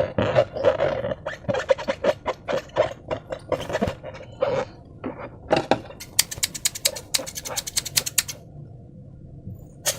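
Slime being squeezed and kneaded by hand, with a run of irregular sticky squelches and clicks. About six seconds in, a quick, even string of sharp clicking pops lasts about two seconds before it goes quieter.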